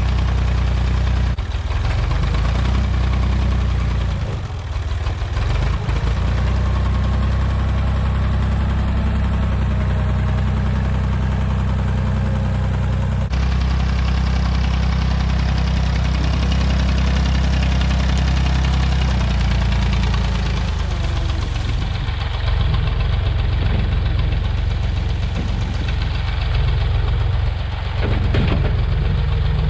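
Old Massey Ferguson backhoe's engine running steadily, its note shifting a couple of times as the machine works.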